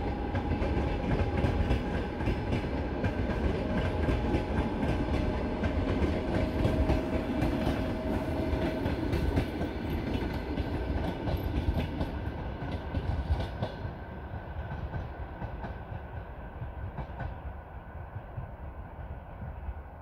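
Passenger coaches of a long-distance train rolling past, their wheels clicking over the rail joints. The sound fades in the last several seconds as the end of the train draws away.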